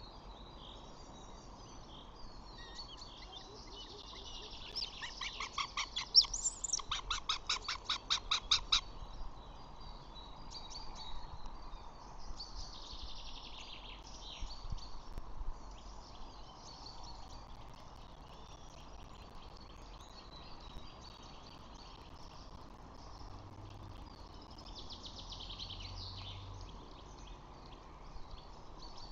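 Birds chirping and calling over a steady background hiss. From about five to nine seconds in there is a louder run of quick repeated notes, about six a second.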